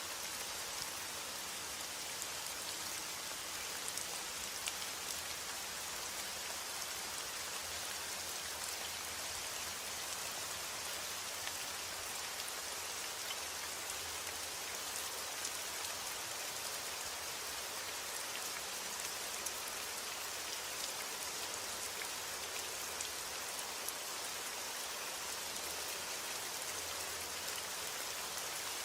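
Steady rain: a dense, even hiss with scattered single drops ticking through it.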